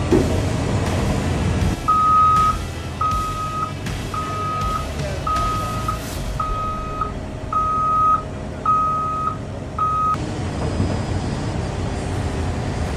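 Backup alarm on heavy earthmoving equipment beeping eight times at about one beep a second, over a diesel engine running steadily: the machine is reversing.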